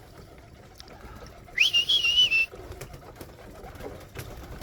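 A person whistles once, a high, wavering note of about a second that rises sharply at the start, to call young pigeons down into the loft.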